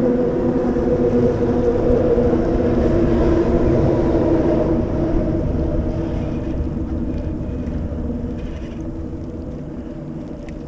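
A motorboat engine droning steadily and slowly fading as the boat moves away, with wind rumbling on the microphone.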